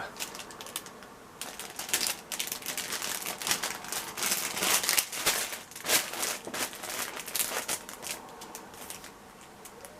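Irregular crinkling and clicking of packaging being handled, many short sharp sounds over several seconds that thin out near the end.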